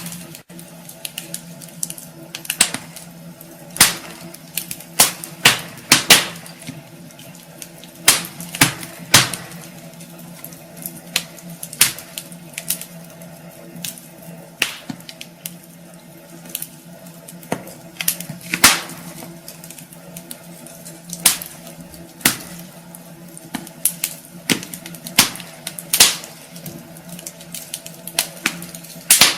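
Wood fire in a fireplace crackling, with irregular sharp pops and snaps, a few louder ones every couple of seconds, over a low steady hum.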